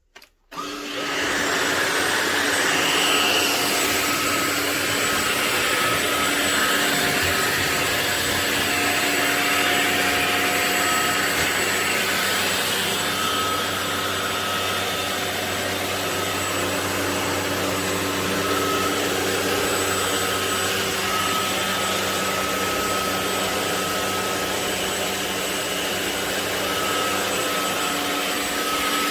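Ultenic U16 Flex cordless stick vacuum running steadily: a constant rush of air with a high motor whine over it. It cuts in after a brief gap right at the start.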